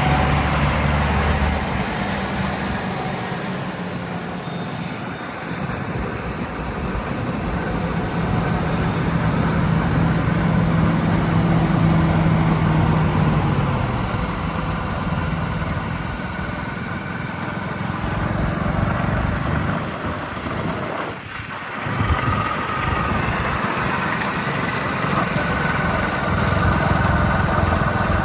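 Heavy diesel engines of earth-moving vehicles running, with a steady hum whose pitch rises and falls as they idle and rev. There is a brief drop in level about three-quarters of the way through.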